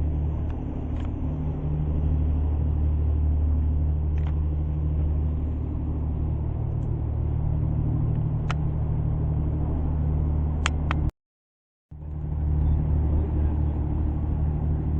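Tour boat's engine running with a steady low hum, under a wash of wind and water noise. The sound drops out completely for under a second about eleven seconds in.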